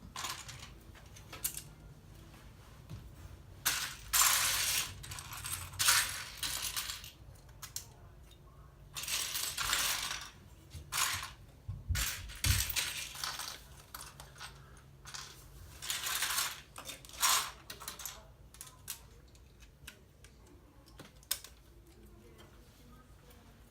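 Loose plastic LEGO pieces clattering and rattling as hands sift through a pile of parts, in several stretches of a second or two with sharp clicks between. A dull bump about halfway through.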